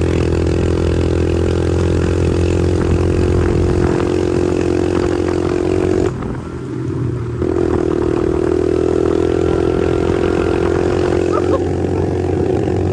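Pit bike engine running at steady high revs, easing off about six seconds in for a second or so and then picking back up.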